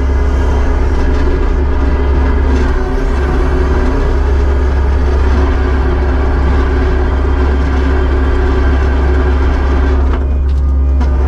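Kubota SVL75-2 compact track loader's diesel engine running steadily, a loud low hum throughout.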